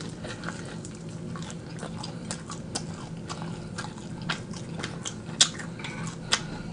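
Close-up eating sounds: chewing fried chicken wings, with many irregular sharp clicks and smacks of the mouth and food.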